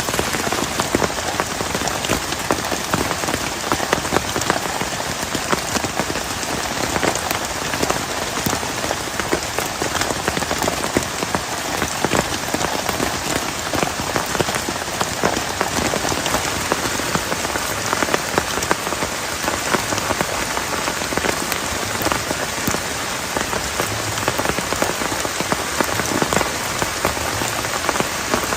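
Heavy rain falling steadily: a dense, even hiss of rain with many sharp, close drop hits on a surface.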